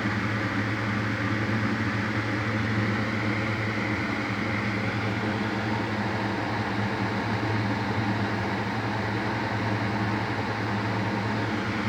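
Steady low machine hum with a hiss over it, unchanging throughout: background fan-type noise picked up by the microphone.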